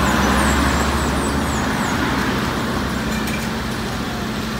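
Car engine idling steadily with a low hum, its level easing slightly over the few seconds.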